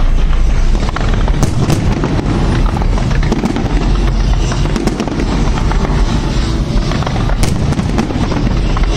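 Fireworks display: a dense, continuous barrage of deep booms and crackling bursts, with sharp cracks standing out about a second and a half in and again near the end.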